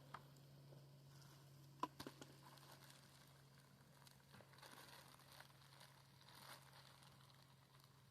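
Near silence: a faint steady low hum, with a few soft clicks about two seconds in and faint rustling after.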